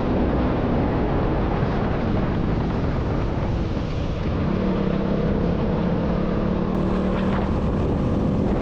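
Motorcycle engine running steadily on the move, with heavy wind rushing over the camera microphone.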